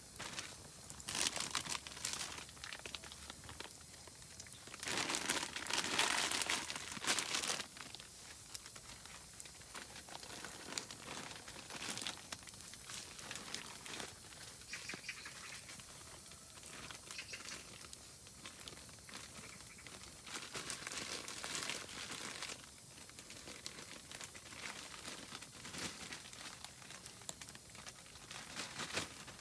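Oak firewood burning in a camping fire bowl, crackling and popping steadily, with a louder, denser run of crackling about five to seven seconds in.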